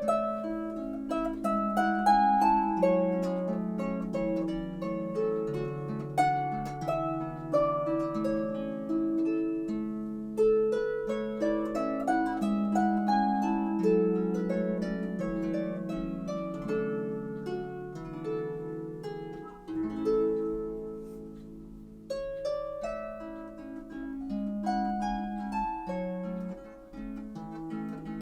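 Solo harp music: a gentle melody of plucked notes, each ringing and fading, over lower accompanying notes.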